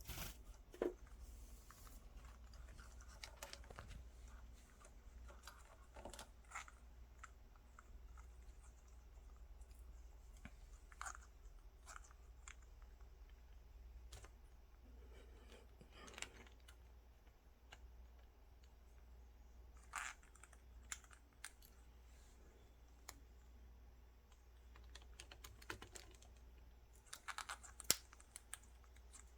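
Faint, irregular light clicks and taps over a steady low hum, with sharper clicks about a second in and near the end.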